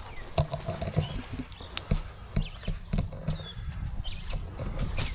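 Footsteps walking on the shore, about two steps a second, with a low rumble of wind on the microphone and high chirps from birds in the second half.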